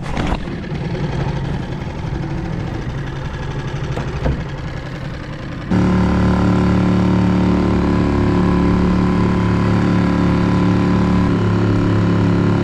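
Small four-stroke outboard motor (Yamaha 2.5 hp) running on a jon boat. A rougher, quieter engine-and-water noise changes abruptly about six seconds in to a louder, steady drone of the running motor.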